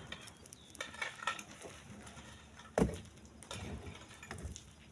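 Split stone being handled: scattered knocks and clicks of rock on rock, with one heavy thud near the middle as a big stone lands.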